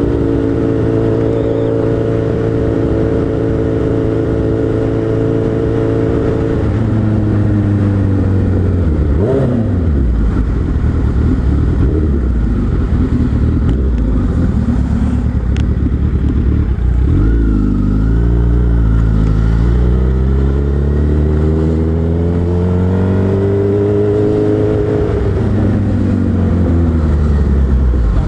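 Suzuki Hayabusa's inline-four engine running under way. Its pitch holds steady for about six seconds, then drops, dips sharply and climbs back around ten seconds in, and rises and falls several times in the second half as the throttle is opened and closed.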